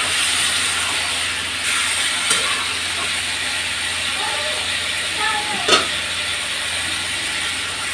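Marinated chicken and onions sizzling steadily in a hot kadai, with a metal spatula stirring them at first.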